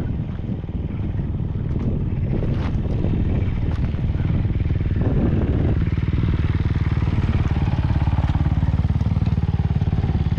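Motorcycle engine running with an even exhaust pulse that grows slightly louder and steadier after about six seconds, with a few faint clicks before that.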